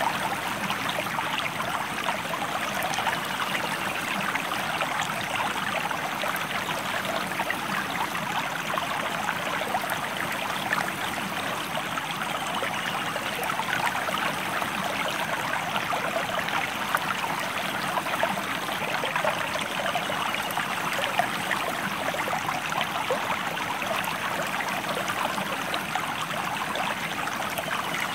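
River water flowing steadily, a continuous babbling rush with no pauses.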